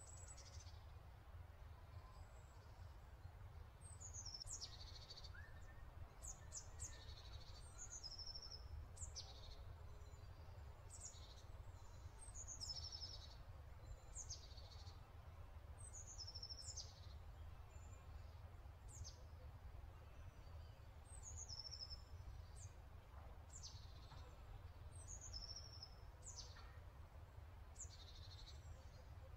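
Faint birdsong: short high chirps and quick downward-sweeping notes, repeating every second or two, over a low steady hum.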